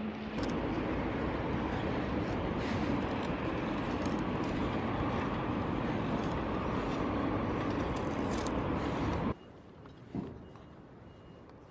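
Steady outdoor rushing noise that cuts off abruptly about nine seconds in, leaving faint background with a single soft click.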